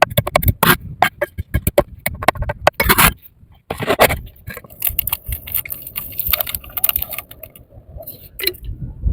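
A series of sharp, irregular clicks and knocks, some in quick runs, mixed with scraping.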